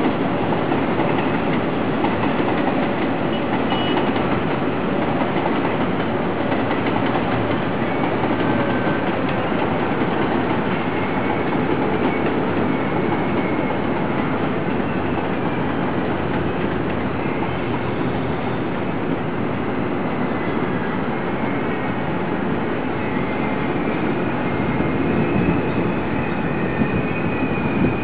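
Taiwan Railway passenger train running along an elevated track: a steady rumble of wheels on rails.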